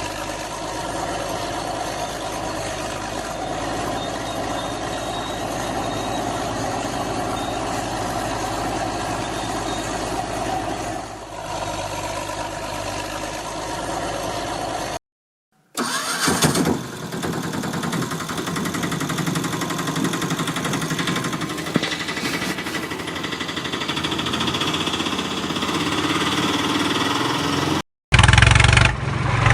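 An engine running steadily. It cuts out for a moment about halfway through, and a different engine sound follows, with a second short break near the end.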